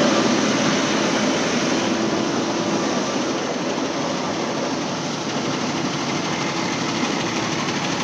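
Engine running steadily at a constant speed, a continuous mechanical drone with a faint steady hum in it.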